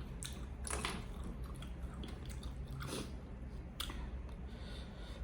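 Close-up eating sounds: a person biting and chewing food, with a few short crisp crunches.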